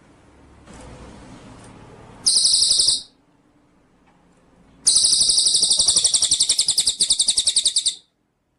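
A songbird giving two fast, high-pitched trills of rapidly repeated notes: a short one about two seconds in and a longer one of about three seconds that cuts off abruptly near the end.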